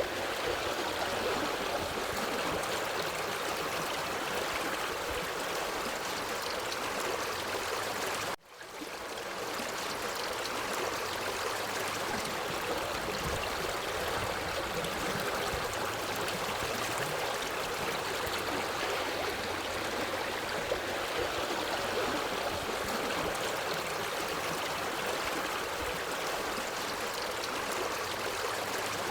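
Water stream flowing, a steady rushing and babbling of water. About eight seconds in the sound cuts out suddenly for a moment and fades back up within about a second.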